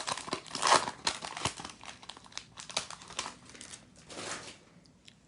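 Trading card pack wrapper crinkling and tearing as the pack is opened by hand, an irregular crackle that stops near the end.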